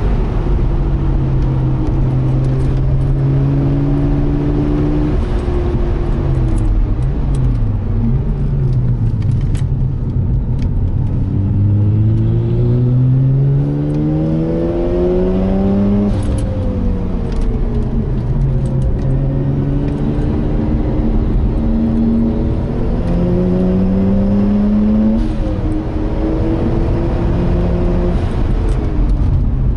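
Turbocharged Mazda RX-8's twin-rotor rotary engine heard from inside the cabin under hard track driving. Its pitch dips and rises quickly a few times about a quarter of the way in, climbs steadily for several seconds around the middle and again near the end, and drops away after each climb.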